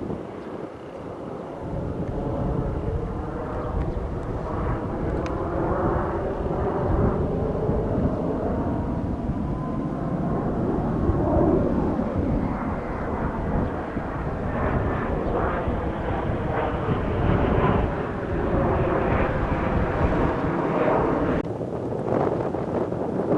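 Jet noise from Kawasaki T-4 aircraft flying past, swelling after a couple of seconds and holding loud with pitches that slowly slide and shift, then dropping sharply near the end.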